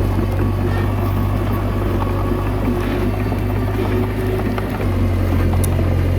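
Komatsu D21A bulldozer's diesel engine running steadily, its note shifting slightly about five seconds in.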